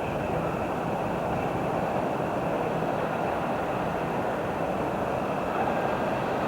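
A train running past on the rails, a steady, even rolling noise that holds level throughout.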